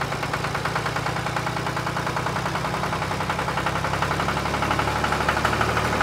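Tractor engine running steadily with a rapid, even beat, getting slightly louder near the end.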